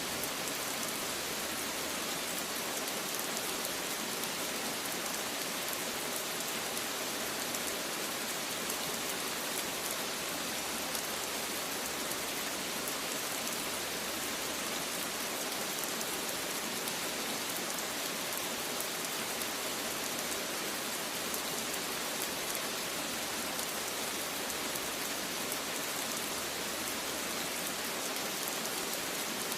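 Steady rain falling: an even, unbroken hiss of many drops with no thunder.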